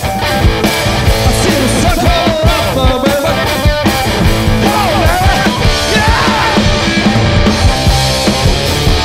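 Live garage-punk rock band playing loudly, with distorted electric guitar, drums and a wavering sung vocal line.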